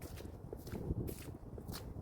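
Footsteps of a person walking at a steady pace, about two steps a second, each step a short crunch.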